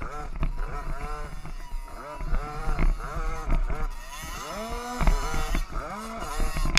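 Several small two-stroke 50cc youth motocross bikes racing, their engines revving up and down over and over as the riders work the throttle.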